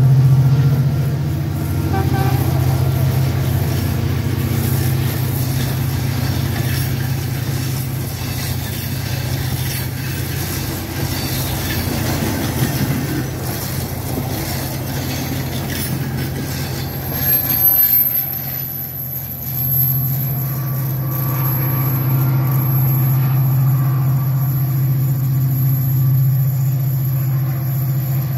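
Train running on the line, a steady low drone with rail noise, easing briefly about two-thirds of the way through before settling back.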